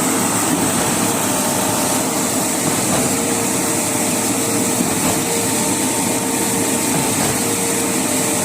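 A machine running steadily: a constant noisy drone with a faint steady hum through it.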